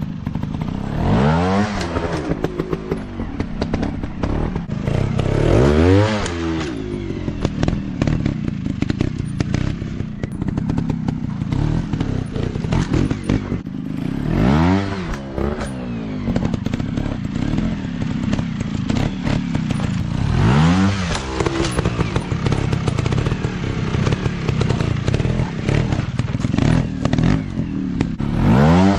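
Off-road motorcycle engines revving up and back down in about five surges, over continuous engine noise with clattering and knocks.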